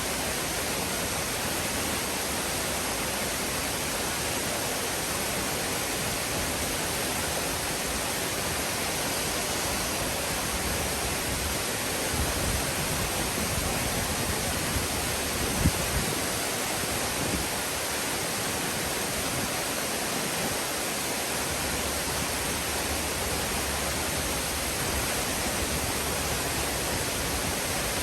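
Waterfall: a steady, even rush of falling water. A few brief low thumps come in the middle, the sharpest just past halfway.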